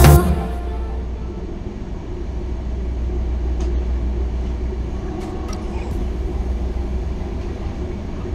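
Passenger train running, heard from inside a carriage: a steady low rumble with a few faint clicks.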